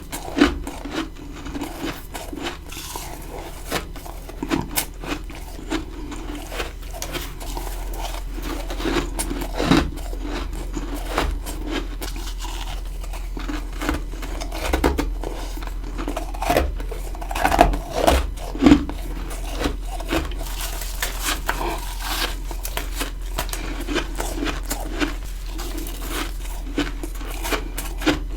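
Ice being bitten and chewed close to the microphone: a dense, irregular run of crisp crunches and crackles, with a few louder bites near the middle.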